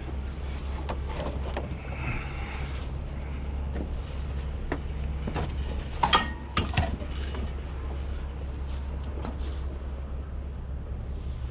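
Scattered knocks, clicks and creaks of things being handled, loudest about six seconds in, over a steady low hum.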